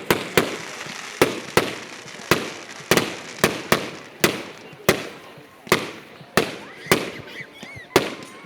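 Fireworks banging one after another, about fifteen sharp reports at uneven spacing of roughly two a second, each trailing off in an echo.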